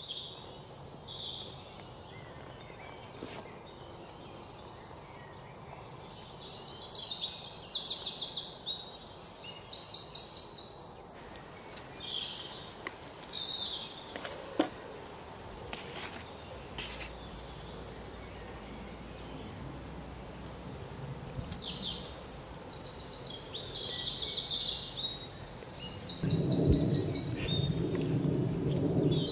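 Several songbirds singing and chirping, with repeated rapid trilled phrases. Near the end, a louder low rustling noise joins in.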